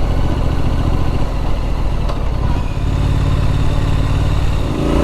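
Triumph Street Scrambler's parallel-twin engine running at a steady road speed while riding, heard from on the bike with wind rush. The loudness dips briefly near the end.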